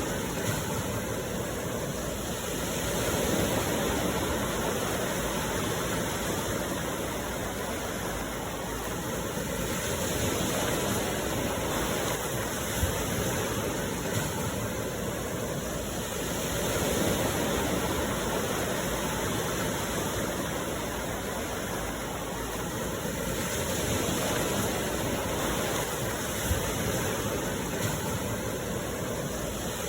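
Sea waves washing onto the shore, a steady rush that swells and eases about every seven seconds.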